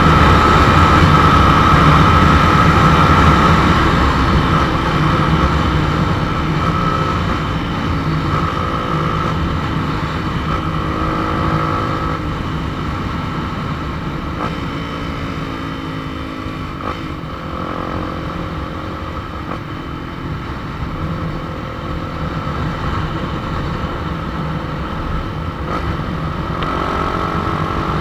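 Motorcycle engine running while riding along. The pitch rises and falls several times in the middle and again near the end.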